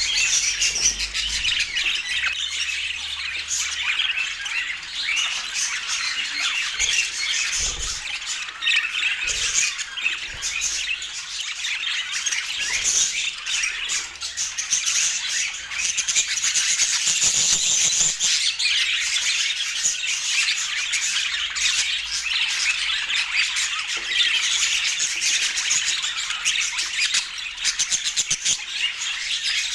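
Budgerigars chattering and squawking without pause, a dense stream of short high chirps and screeches.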